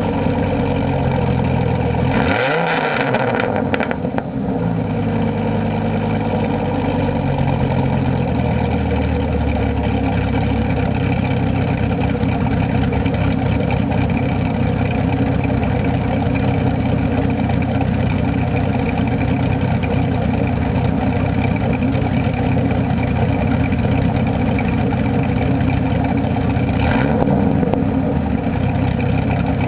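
Dodge Ram SRT-10's 8.3-litre V10 idling through a homemade exhaust system, with one quick rev about two seconds in that rises and falls back, and a smaller blip near the end.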